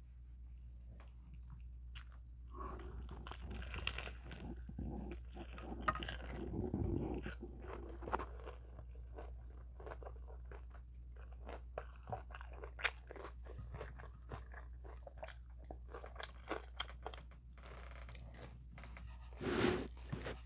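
Close-miked biting and chewing of extra crispy fried chicken, with the crunch of the breading heard as irregular crackles, densest for a few seconds early on and sparser later, over a steady low hum.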